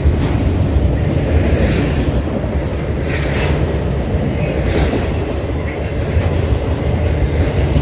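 Railroad cars rolling past on the track: a loud, steady rumble of wheels on rail, with brief brighter hissing swells every second or so.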